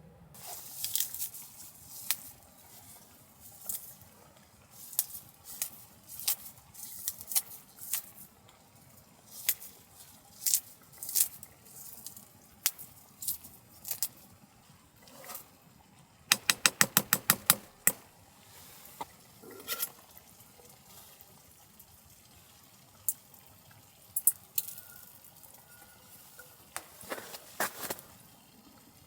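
Scattered light clinks and taps of small metal cookware being handled, with a quick run of about nine sharp clicks in the middle.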